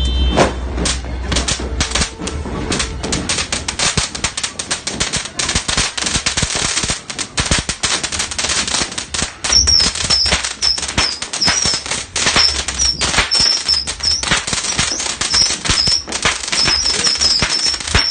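Consumer firework barrage going off: a fast, dense string of sharp pops and cracks. From about a third of the way in, high warbling whistles join the pops, like whistling saturn missiles.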